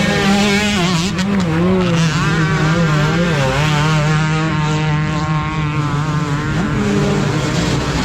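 Motocross dirt bike engines revving, their pitch rising and falling unevenly, with more than one bike running at once.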